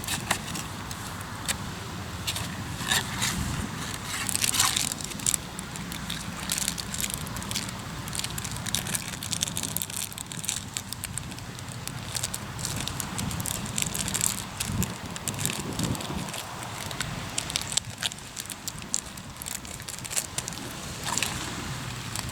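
Hardwood campfire crackling, with frequent sharp pops scattered throughout, over a low steady rumble.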